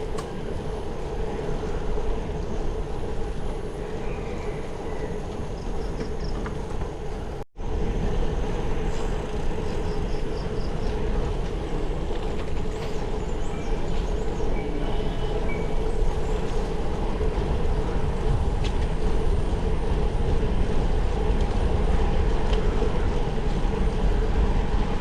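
Steady rumble of wind on the microphone and road noise while riding a bicycle, with a brief dropout about seven and a half seconds in and a few faint high chirps.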